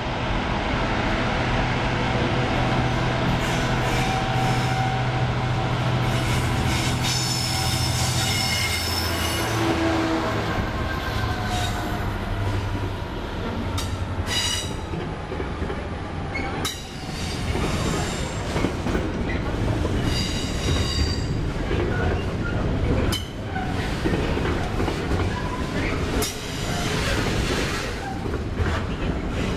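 Intermodal freight train passing: the locomotive's steady low drone for the first several seconds, then a long rake of container wagons rolling by with knocks from the wheels and repeated high-pitched wheel squeals.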